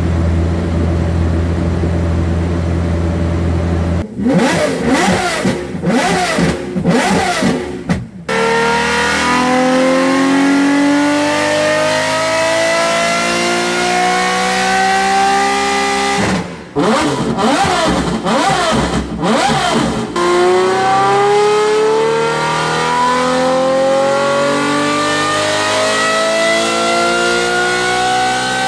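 Ferrari 599's V12 engine through an aftermarket exhaust: it idles steadily, then gives several quick revs. It then makes a long pull with the pitch climbing steadily for about eight seconds, then more quick revs, and near the end another long rising pull.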